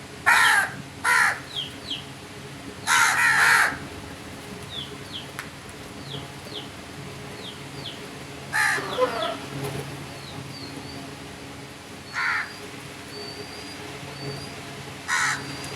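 Crows cawing: about half a dozen harsh caws spaced irregularly a few seconds apart, one of them longer and drawn out about three seconds in. Faint high, short chirps of small birds come between the caws.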